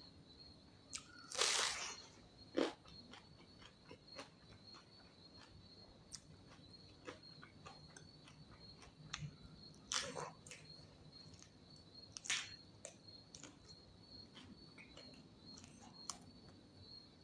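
Close-up eating sounds: crunchy bites and chewing, loudest in a few bursts near the start and around the middle, with small mouth clicks between them. A steady high-pitched tone runs underneath.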